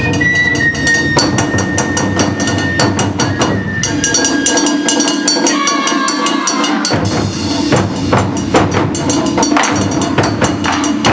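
Taiko drums struck in a fast, driving rhythm, with sharp wood-like clicks among the strikes. The low drums drop out for about two seconds midway, then come back in.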